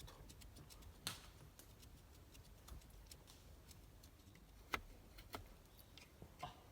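Faint knife work on a stick of fatwood: a blade shaving curls for a feather stick, heard as a few scattered sharp clicks and light scrapes over a quiet background.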